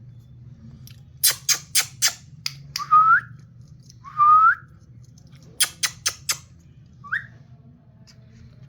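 African grey parrot whistling: three short rising whistles, with two runs of four sharp clicks between them.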